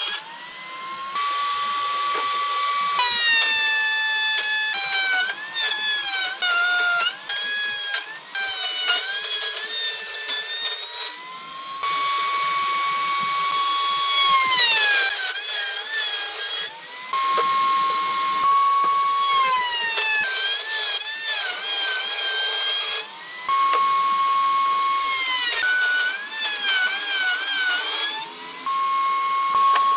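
An electric power tool's motor whining at speed in repeated runs. The pitch dips and wavers as it comes under load in wood, then recovers, with brief stops between runs.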